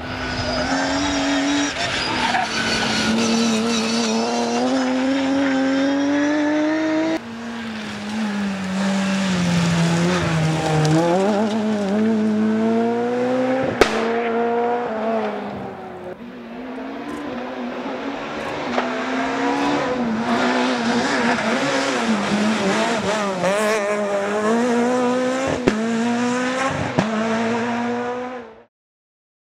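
Rally car engines revving hard on a special stage, the pitch climbing and dropping through gear changes and lifts, with some tyre squeal and a few sharp cracks. The sound cuts off suddenly near the end.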